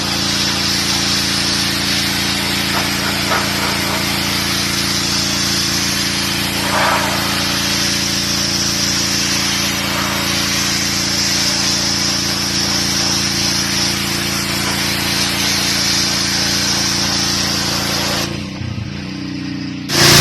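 Gas-engine DeWalt 3600 psi pressure washer running steadily while its jet sprays and hisses against the concrete. Near the end the spray cuts off and the engine note wavers as the trigger is released.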